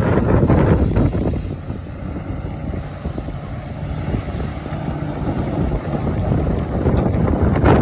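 Excavator engine running under load as it digs rock, a heavy low rumble that eases in the middle and builds again near the end.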